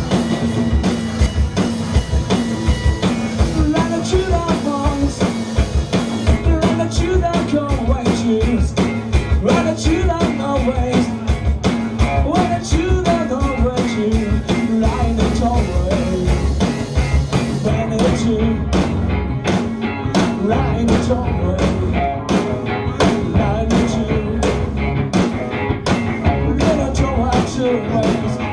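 Live rock band playing an instrumental passage: drum kit, bass guitars and electric guitars in a loose, driving jam. Over the last ten seconds or so the drums settle into an even, quick beat.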